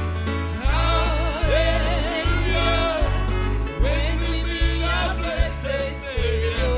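Gospel praise song: a singer with a wavering vibrato over a steady bass line and a regular drum beat.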